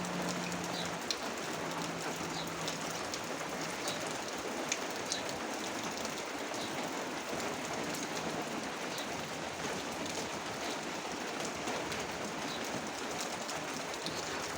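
Rain falling steadily, with scattered sharp ticks of drops striking nearby surfaces.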